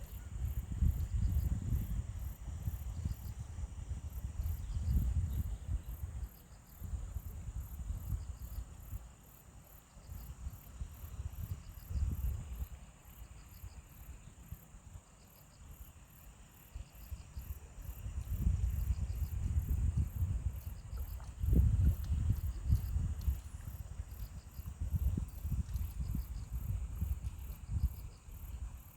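Insects chirping in rapid, even, high-pitched pulses over a steady high whine, with a second insect's short pulse trains repeating every second or so. Low rumbling gusts come and go underneath, loudest at the start and again in the second half.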